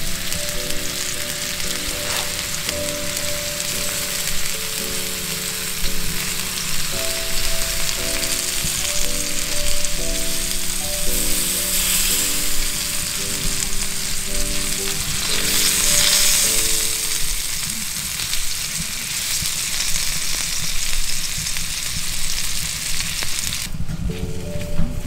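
Scallops searing on a hot iron griddle plate, with a steady sizzle that swells twice in the middle. The sizzle drops away suddenly near the end.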